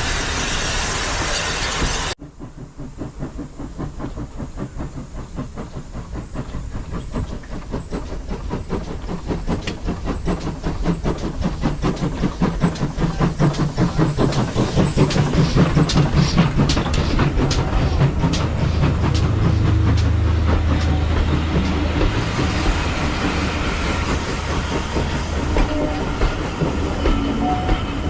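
A steam train running past: a quick, even beat of exhaust chuffs and rail clatter builds as it approaches, and gives way to a deep rumble as the train goes by. A steady hissing noise cuts off abruptly about two seconds in.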